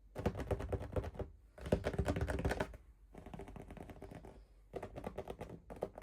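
Packaging being handled and opened by hand: rapid crinkling and clicking in four spells of about a second each, with short pauses between.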